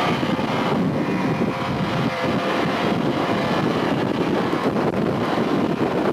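Wind buffeting the camcorder microphone in a blizzard: a loud, rumbling, gusting noise with no clear pitch.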